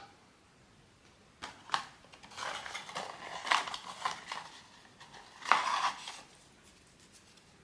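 Hands handling a small plastic blind-box figurine and its packaging: irregular sharp clicks and rustling in several clusters, the loudest burst near the end.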